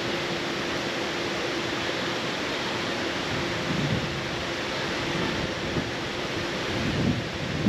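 Waterfall and river current rushing as a steady, even roar, with a faint steady hum underneath.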